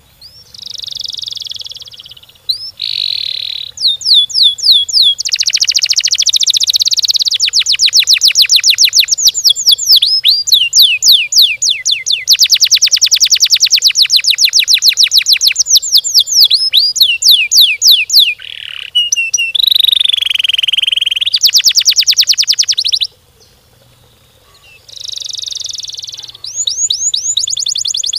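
Domestic canary singing: long, fast trills of rapidly repeated high notes broken by short buzzy phrases, with a brief pause near the end.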